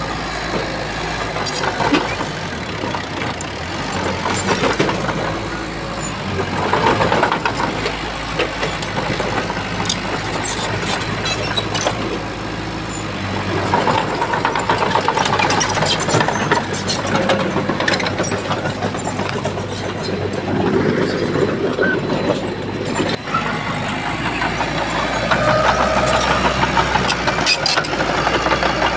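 Diesel engine of a Shantui bulldozer running under work, its sound swelling and easing every few seconds, with scattered metallic clanks and knocks.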